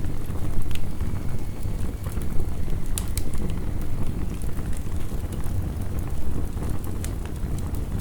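Wood fire crackling, with irregular sharp pops and snaps, over the steady low rumble and hiss of heavy rain.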